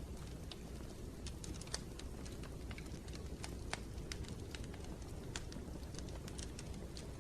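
Wood fire crackling in a fireplace: irregular sharp pops and clicks, several a second, over a steady low rumble of the flames.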